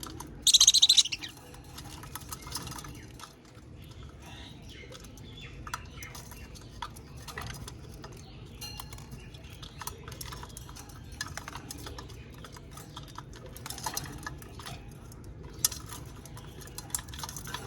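Budgies chirping and chattering, with one loud, shrill call about half a second in, and many small scattered clicks among the softer chirps.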